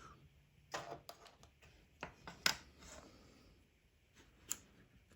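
Faint handling noises: a few light clicks and short rustles, the sharpest about two and a half seconds in, over quiet room tone.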